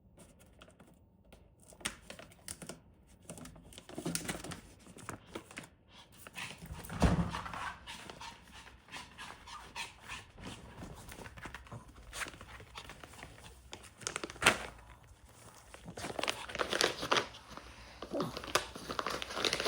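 Maltese puppy panting and moving about, with scattered clicks and rustles and a thump about seven seconds in.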